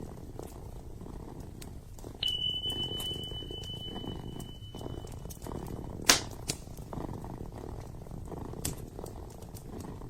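Kitten purring steadily, with scattered sharp crackles and pops from a burning wood fire, the loudest about six seconds in. A thin, steady high whistle sounds for about three seconds from two seconds in.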